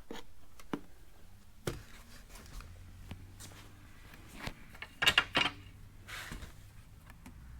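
A few light knocks and clicks from parts being handled, with a faint steady low hum underneath.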